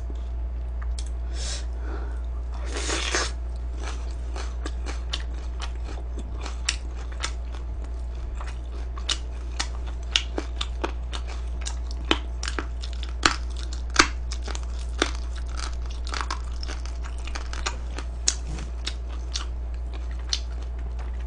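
Crispy fried chicken being chewed close to the microphone, with sharp, irregular crunches of the batter. A steady low hum runs underneath.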